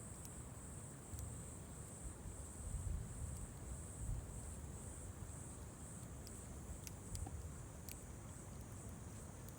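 Insects chirping in a high, even pulsing trill, about two to three pulses a second, over a low rumble, with a few faint sharp pops from the wood campfire, most of them past the middle.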